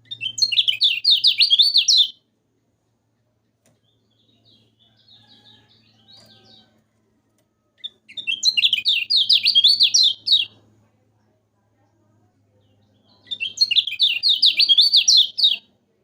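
A kecial kuning songbird singing: three loud two- to three-second bursts of rapid, repeated high notes, at the start, about eight seconds in and near the end, with softer twittering between the first two.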